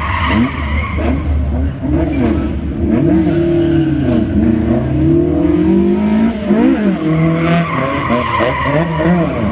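Drift car engines revving up and down repeatedly, with tyre squeal as the cars slide.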